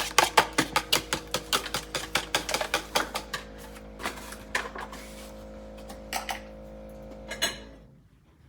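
Spoon stirring the potato latke mixture in a bowl, knocking against the side in quick, even strokes of about five a second, then slowing to a few scattered knocks after about three seconds. A steady hum runs underneath and cuts off near the end.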